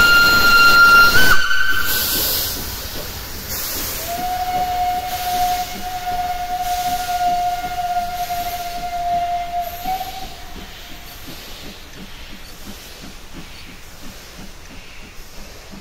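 Steam locomotive whistles over hissing steam: a loud high whistle that cuts off about a second in, then a lower, steady whistle held for about six seconds from about four seconds in, rising slightly just before it stops.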